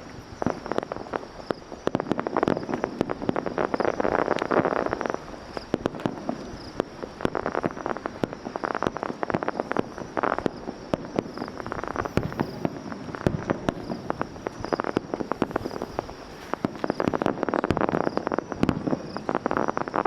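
Fireworks show: a rapid run of sharp bangs and dense crackling from bursting shells. The crackle swells twice, a few seconds in and again near the end.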